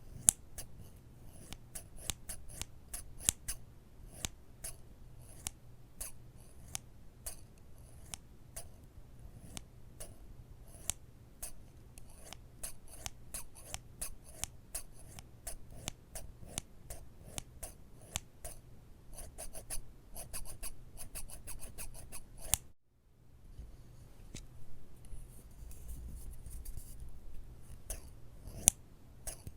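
Close-up crisp clicking and snipping sounds in quick succession, a few a second. About 23 seconds in there is an abrupt cut to a softer, scratchy stretch with scattered clicks.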